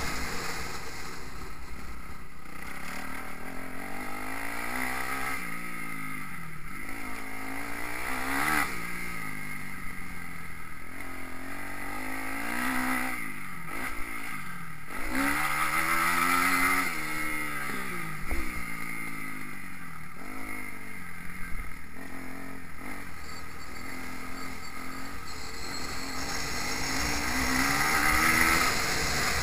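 Kawasaki KX250F single-cylinder four-stroke motocross bike engine revving hard, its pitch climbing and dropping again and again as the rider works the throttle and gears around the track.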